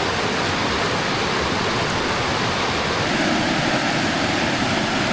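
A mountain creek rushing over a rock cascade: a steady, unbroken roar of white water, its tone shifting slightly about three seconds in.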